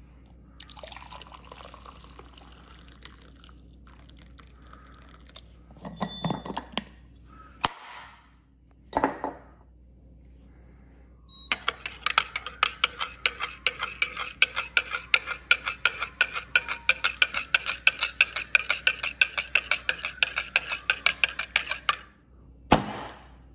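Rapid, even clinking, like cutlery against crockery, about four strikes a second for some ten seconds in the second half. Before it come a few scattered knocks and rustles, and there is another single knock near the end.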